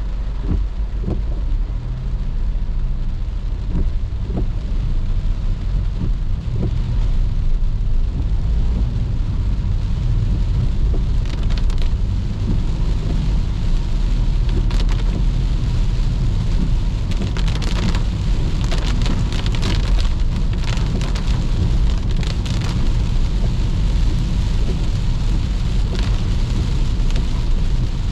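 Rain falling on a moving car over a steady low rumble from the car and its tyres on the wet road. Many short raindrop taps come in from about the middle onward.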